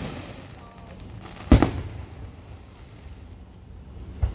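Fireworks bursting overhead, each burst a sharp bang with a short echoing tail. There is a bang right at the start, a louder one about a second and a half in, and a softer thump near the end.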